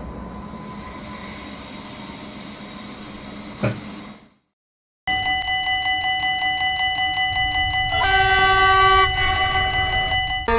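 Steady rumbling noise with a single sharp knock, then, after a short gap, a train's multi-tone air horn sounding continuously. A louder set of tones joins about eight seconds in.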